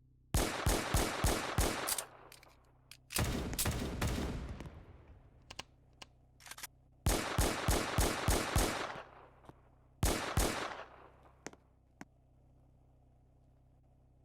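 Rapid bursts of sharp, loud bangs like automatic gunfire. There are about six quick bangs at the start, a dense rattling burst about three seconds in, about seven more bangs near the middle, and two near the end, each burst trailing off into echo.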